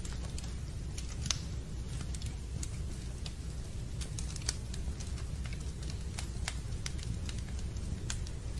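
Fireplace fire crackling: a steady low rumble with irregular sharp pops and snaps, two of them louder than the rest.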